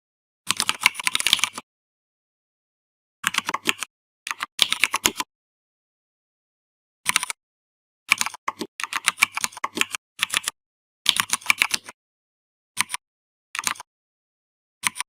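Typing on a computer keyboard in irregular bursts of rapid key clicks, some a second or two long, others just a few keystrokes, with silent pauses between them.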